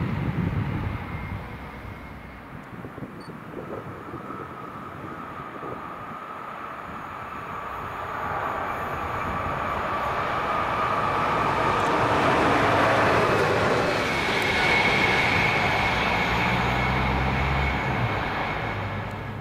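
An electric passenger train approaching and passing, its running noise swelling to its loudest in the middle of the clip with a high steady whine, then easing off near the end.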